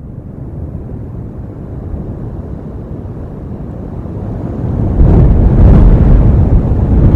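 Storm wind blasting across an outdoor camera microphone, a low rushing noise that grows much louder about five seconds in as a strong gust hits.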